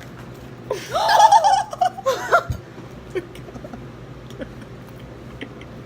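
Young women laughing and giggling for about two seconds, starting under a second in, then fading to quiet room noise with a few small clicks.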